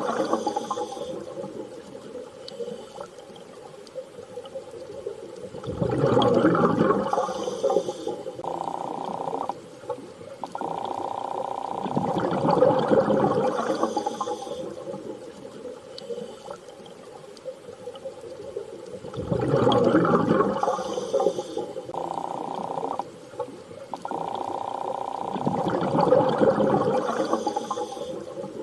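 Underwater sea ambience: water surging in slow swells about every six to seven seconds, with long, steady, whale-like tones coming and going between them.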